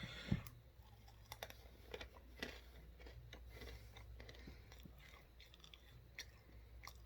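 Close-up chewing of a mouthful of several crunchy flavoured dried earthworms: one sharp crunch on the first bite, then faint, irregular small crunches as they are chewed.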